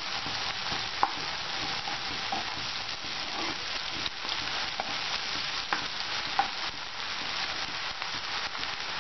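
Chopped onion, tomato and green chillies with ginger-garlic paste sizzling steadily in hot oil in a pan as a steel spoon stirs them, with a few short clicks of the spoon against the pan.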